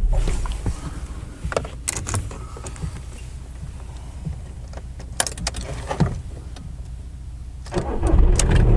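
A few sharp clicks and rattles, then near the end the Skoda Fabia Mk1's 1.9 PD TDI diesel engine cranks briefly, starts and runs steadily, the sign that the repaired battery earth lead now carries the starting current.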